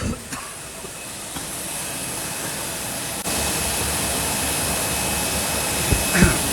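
Steady rushing of a paper lid machine's hot-air blower, with a faint high whine, growing louder and stepping up sharply about three seconds in. A thump at the start and a couple of knocks near the end.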